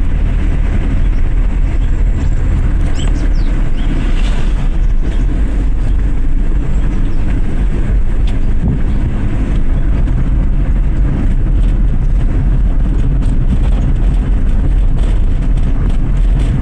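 Maruti Suzuki Swift VXI petrol car driving, a steady low engine and road rumble that keeps an even level throughout.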